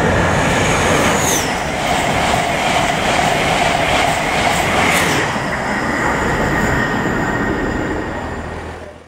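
A High Speed Train, class 43 power cars with Paxman VP185 diesel engines and a rake of Mark 3 coaches, passing through a station at speed: a loud rush and clatter as the train goes by, dying away sharply near the end.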